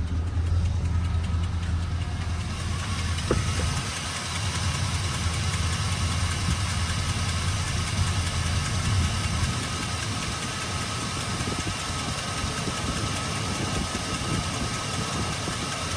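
Truck's 4.8-litre LS V8 idling steadily. It is still misfiring, which the owner puts down to old spark plug wires, and he suspects exhaust leaks at his own welds.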